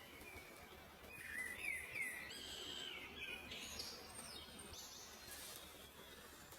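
Wild birds calling: a run of short chirps and sliding whistled notes from about a second in until near the end, over a faint steady outdoor hiss.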